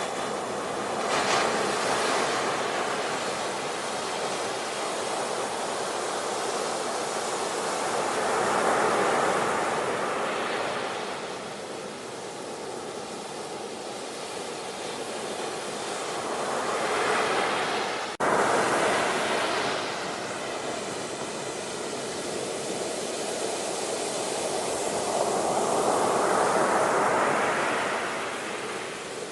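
Ocean surf: waves breaking and washing in, swelling and fading about every eight seconds, with a sudden break in the sound about eighteen seconds in.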